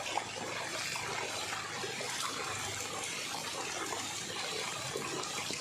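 Water running steadily, an even noise without breaks.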